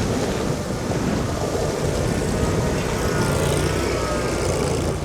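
Steady rushing wind on the microphone and road noise from an electric scooter riding through snow, with a faint whine and low hum coming in about halfway through.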